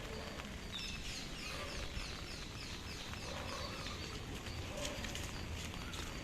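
A small bird singing a quick run of about ten short, high, descending chirps, roughly four a second, that stops about halfway through, over a steady background hiss.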